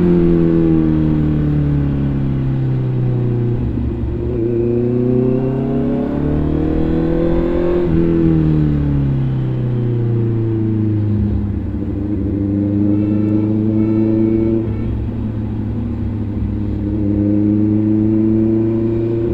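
Motorcycle engine under way: its note drops as the bike slows, climbs again as it accelerates from about four to eight seconds in, drops once more, then holds steady at a cruise.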